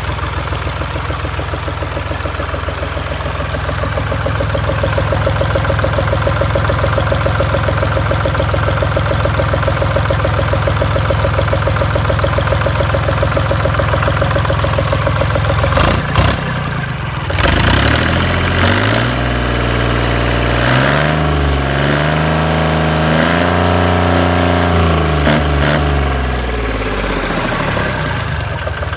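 21 hp marine engine idling steadily. About halfway through there are a few sharp knocks, then the engine is revved up, its pitch rising, dipping and rising again several times before it drops back to idle near the end.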